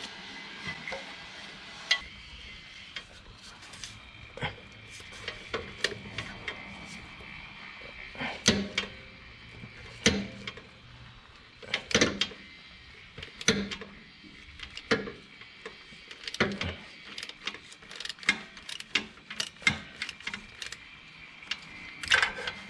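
Socket ratchet clicking in short runs with metal clinks, about one run every second and a half, as the oil filter housing is unscrewed with a cap wrench on a bendable extension.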